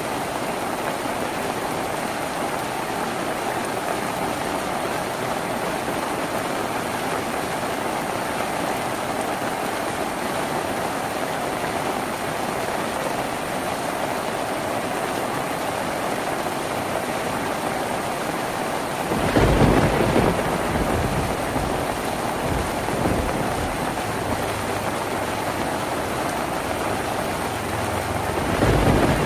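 Steady rain drumming on a tin roof. About two-thirds of the way through a sudden deep rumble breaks in and fades over a few seconds, and another starts near the end.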